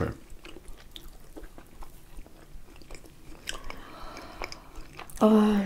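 Close-miked chewing of a blin, a thin Russian pancake, dipped in condensed milk: quiet wet mouth sounds with small clicks.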